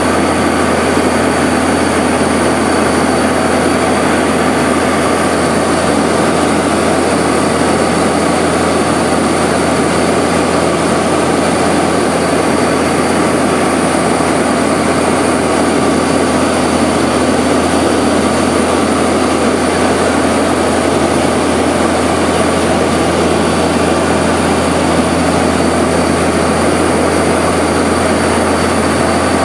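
Seaplane's propeller engines droning loud and steady, heard from inside the cabin on the landing approach.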